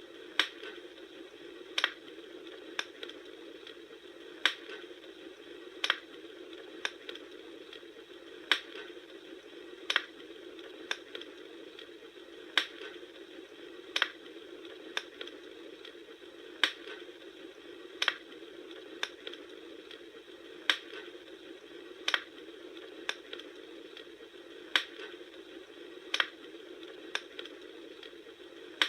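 Wood fire crackling: a steady hiss with sharp pops about every second or so, in a near-regular pattern.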